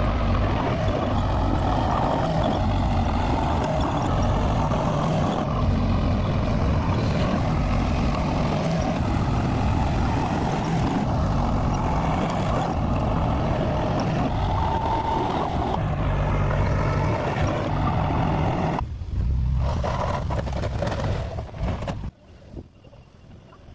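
Bulldozer's diesel engine running steadily. It dips sharply for a moment near the end, then drops away to a much quieter sound.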